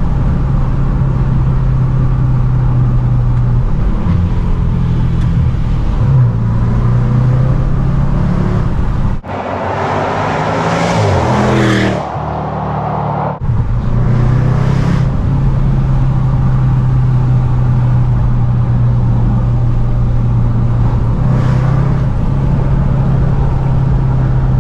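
Range Rover Sport SVR's supercharged 5.0-litre V8 running through a QuickSilver valved sport exhaust with the valves open, driving on the road with a steady exhaust drone. Around ten to twelve seconds in there is a short, louder surge with rising and falling pitch and a rush of noise. The sound breaks off abruptly twice, about nine and thirteen seconds in.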